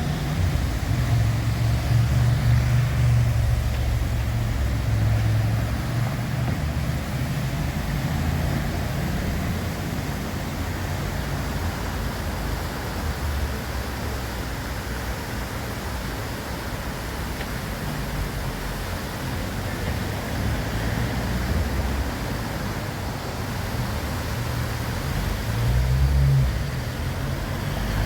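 Steady city street traffic noise, a deep rumble from passing cars with a hiss above it, swelling briefly near the end.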